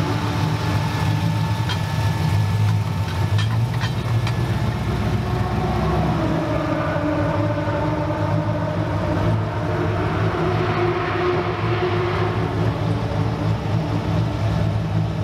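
Car engine running steadily, with a few light clicks a couple of seconds in.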